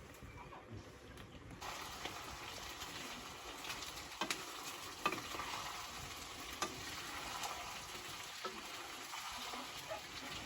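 Food sizzling in a hot pan as it is stirred, with scattered sharp clinks of a utensil against the pan. The sizzle starts suddenly about one and a half seconds in.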